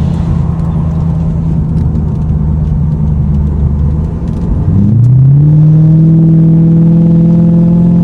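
Lexus car engine pulling hard under acceleration. It runs at a steady note, dips briefly about four and a half seconds in, as at a gear change, then climbs again and holds loud and slowly rising.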